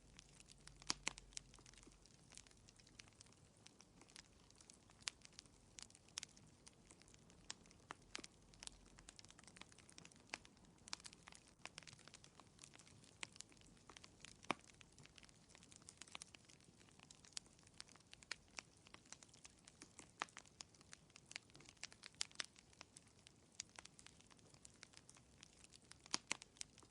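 Fire crackling faintly in a fireplace: irregular sharp pops and snaps, several a second, over a quiet hiss.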